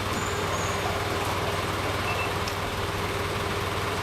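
Truck engine idling steadily, with a constant low hum.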